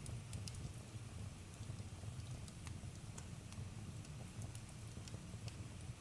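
Campfire burning with a low steady rumble and scattered sharp crackles and pops from the burning wood, several a second.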